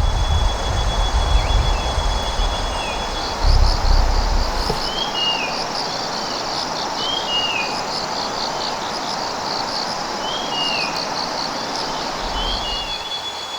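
Outdoor ambience: a bird gives a short falling chirp about every two seconds, over fast pulsed chirping and a steady hiss. Low rumbles sound in the first few seconds and again near the end.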